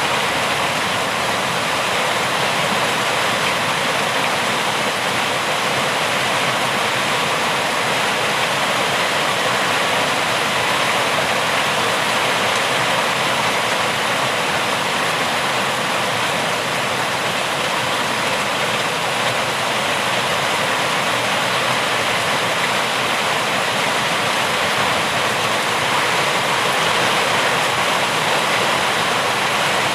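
Rain falling steadily: an even, unbroken hiss with no separate drops, thunder or other events standing out.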